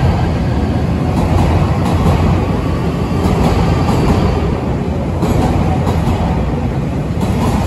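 Electric commuter train pulling out of the station, with a steady rumble of motors and wheels as its cars run past close by.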